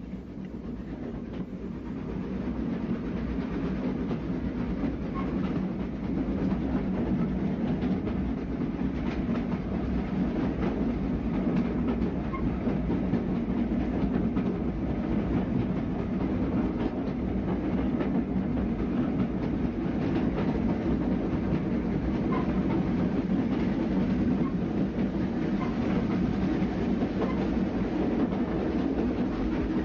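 Steam-hauled passenger train running, a steady rumble from the carriages with wheels clicking over the rail joints. It grows louder over the first couple of seconds and then holds even.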